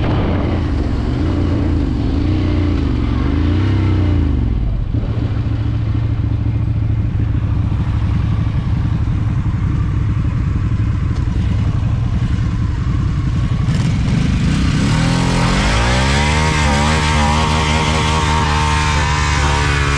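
Motorcycle engine running while riding, with wind noise; the revs waver early on, hold low and steady through the middle, then climb sharply about three-quarters of the way through and hold higher as it accelerates.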